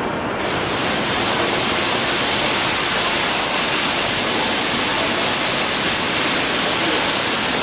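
Steady rushing hiss of falling water, even and unbroken, growing fuller and brighter about half a second in.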